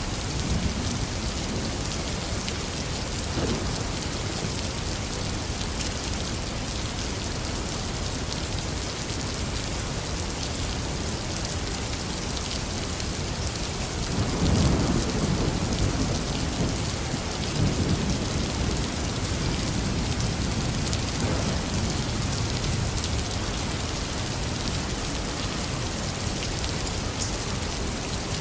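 Heavy rain falling steadily on surfaces, with a low thunder rumble swelling about halfway through and rolling on for several seconds.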